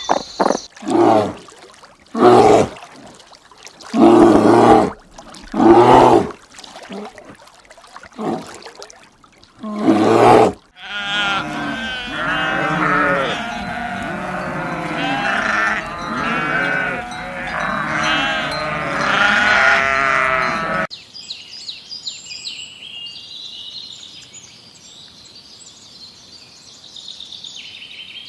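Bleating livestock: about six separate loud bleats, then a whole flock bleating at once for about ten seconds. Near the end, fainter high-pitched chirping calls take over.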